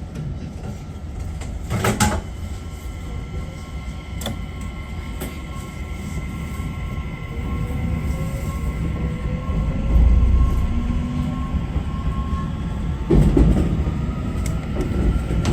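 JR Kyushu 811 series electric train pulling away and gathering speed. Its VVVF inverter whine glides up in pitch over the running rumble, and the wheels knock over rail joints or points a few times.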